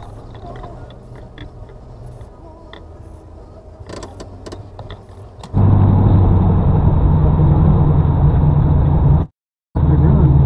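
Quiet car cabin with a few light clicks, then about five and a half seconds in a loud, steady, low engine rumble of a car driving, picked up by a dashcam microphone; it drops out for a moment near the end and comes straight back.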